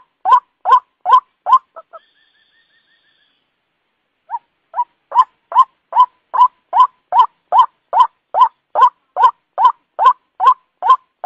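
White-breasted waterhen (ruak-ruak) giving its repeated call as a lure, about two and a half loud notes a second. The calling breaks off about two seconds in, leaving a faint run of short higher notes. After a silence it starts again near the middle, building back to the same steady rhythm.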